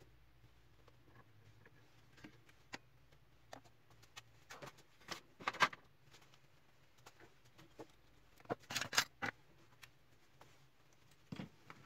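Irregular light clicks and knocks of plastic printer parts and tools being handled during hand reassembly of an HP LaserJet MFP, with two short louder clusters of clattering about halfway and two-thirds of the way through.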